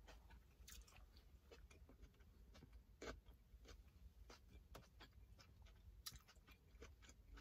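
Near silence with faint, irregular mouth clicks of someone chewing a bite of steak fajita with their mouth closed.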